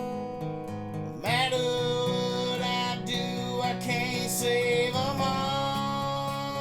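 Country ballad played on a strummed acoustic guitar. About a second in, long held melody notes that slide and waver come in over the strumming.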